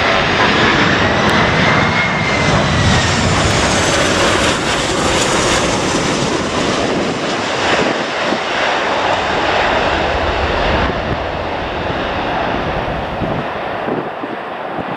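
Airliner jet engines running loud as the aircraft passes close by, with a whine that rises and then falls over the first few seconds; the noise eases off near the end.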